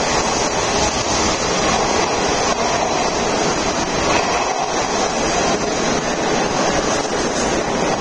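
Hanshin Electric Railway train pulling out of an underground platform, its running noise a steady rush that echoes off the station walls as the last cars pass.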